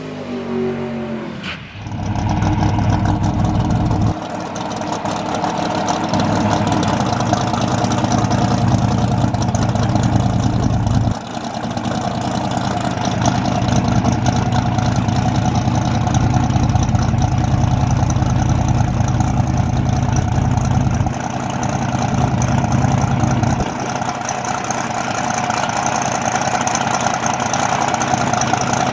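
Car engine idling with a steady note. Its low rumble drops away and returns several times.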